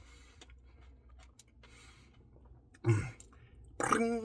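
A man's non-verbal vocal sounds: soft breathy noises, then a short low sound falling in pitch about three seconds in, and a held, steady-pitched sound near the end.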